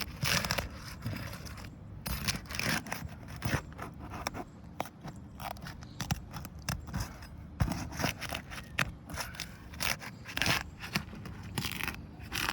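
Asphalt roof shingles being pried up and unsealed: irregular scraping and crackling as the tabs are worked loose from the tar seal strip.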